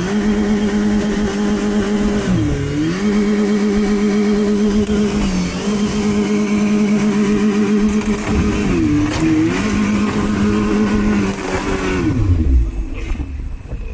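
Boat's outboard motor running at high revs, its note dipping briefly twice, then falling sharply near the end as the engine slows.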